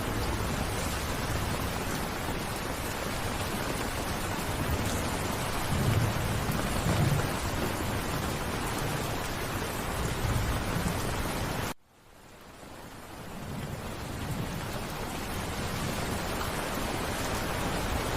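Steady rain, with low rolls of thunder rumbling twice in the middle. About two-thirds of the way through the rain cuts out abruptly, then fades back in over a couple of seconds.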